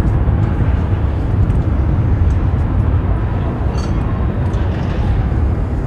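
Rolls-Royce Trent 1000 jet engines of a Boeing 787-10 at take-off thrust: a steady, heavy, low rumble with a hiss above it.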